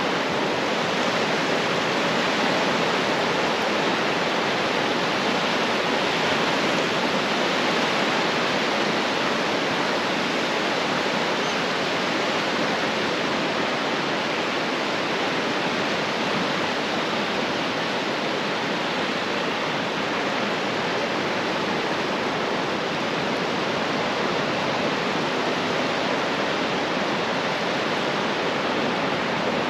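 Ocean surf on a beach making a steady, even wash of noise, with no separate wave breaks standing out.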